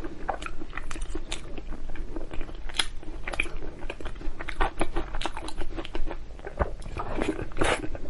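Close-miked chewing of braised lamb chop: wet mouth clicks and smacks coming irregularly, several a second.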